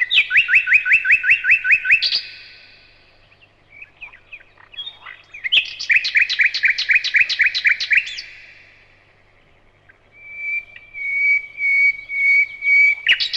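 Bird song: two phrases of a fast trill of rapidly repeated sweeping notes, each lasting about two seconds, then a run of steady, level whistled notes near the end.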